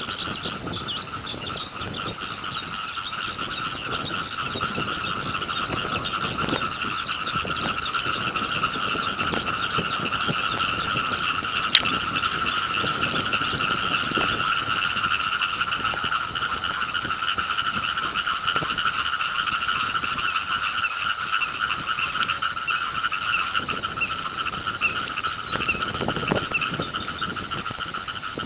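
Dense chorus of many frogs calling together, a continuous high pulsing trill that swells gradually louder, with skylark song twittering above it. One sharp click about twelve seconds in.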